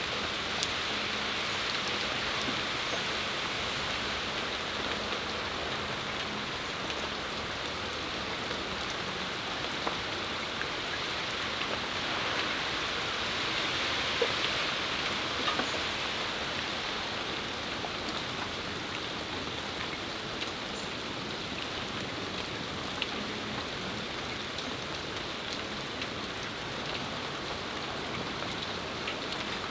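Steady rain shower falling on a patio, a constant hiss with scattered individual drops ticking, swelling slightly about halfway through.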